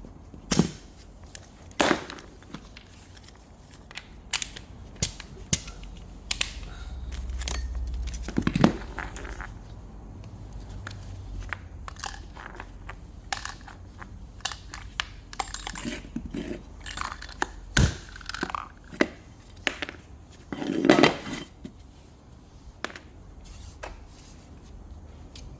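Irregular clicks, clinks and knocks of tools and small metal parts being handled during alternator work, with a brief low rumble partway through.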